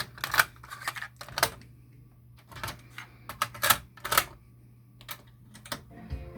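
Clicks and clunks of a Sony TC-WR11ES dual cassette deck's transport mechanism and controls as it is operated, about a dozen sharp clicks in small groups over a steady low hum.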